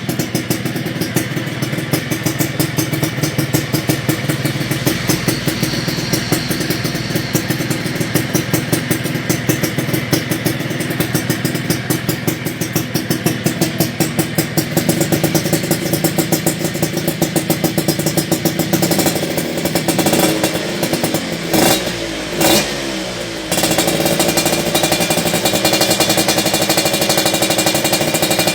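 Suzuki Satria Hiu two-stroke single-cylinder engine breathing through an aftermarket under-body racing exhaust, idling with an even pulsing beat. About twenty seconds in it is blipped a few times, then it is held at a steady higher rev near the end.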